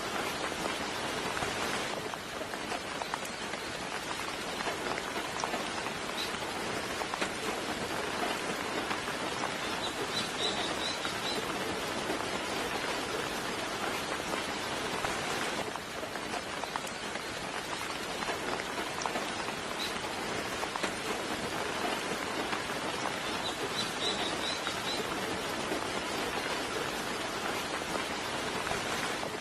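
Steady soft rain falling, an even patter. A bird gives a short cluster of high chirps about ten seconds in and again near the end.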